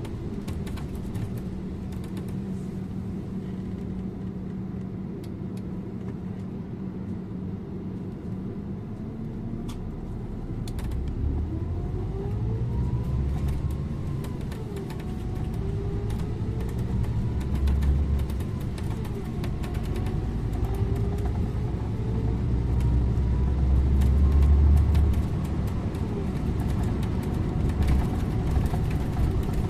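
Scania InterLink bus engine running on the road. It holds a steady hum at first; from about ten seconds in it gets louder and its pitch climbs and drops several times, as under acceleration through gear changes.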